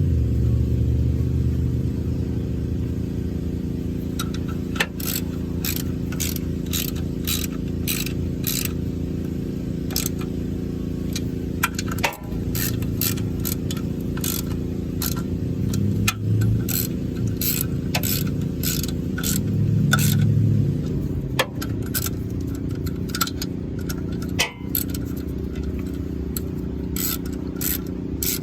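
A hand ratchet clicking in runs of short strokes as it tightens the clutch pressure-plate bolts, over a steady low hum.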